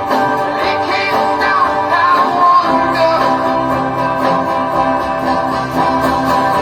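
Guitar music, strummed chords with a gliding melody line over them; the chord changes about two and a half seconds in.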